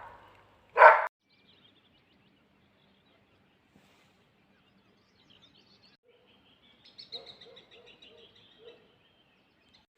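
A dog barks once, loudly, about a second in; then, after a quiet stretch, faint bird chirps and trills come in near the end.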